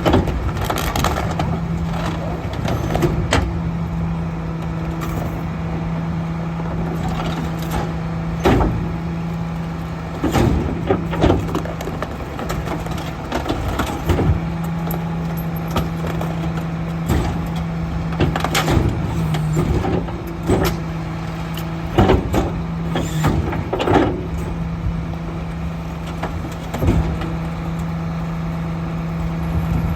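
Split-body garbage truck running with a steady engine hum, its pitch shifting a little now and then, while repeated loud bangs and clanks ring out from carts and refuse being handled and packed.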